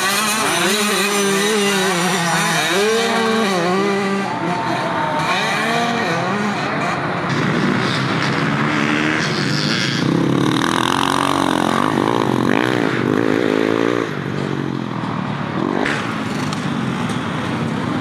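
Several motocross motorcycles racing, their engines revving up and down through gear changes, with more than one bike heard at once.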